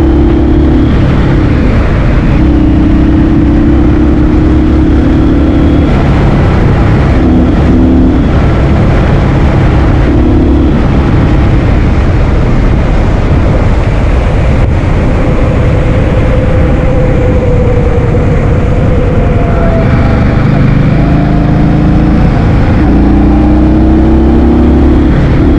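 Heavy wind buffeting on the microphone while riding a motor scooter, with the scooter's engine note rising and falling underneath and dropping away now and then.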